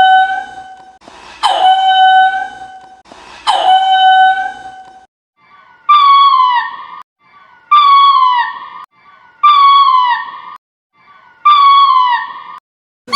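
Lemur calling over and over, a loud wailing call about every two seconds. The first three calls hold one steady pitch; the next four sit higher and drop in pitch at the end.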